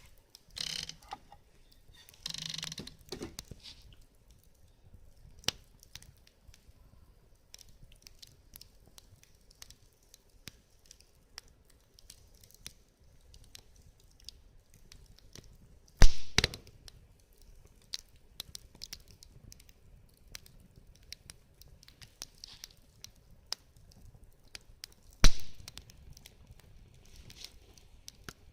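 Wood fire crackling in a fire pit, with scattered small pops throughout and two loud sharp knocks, one just past the middle and one near the end.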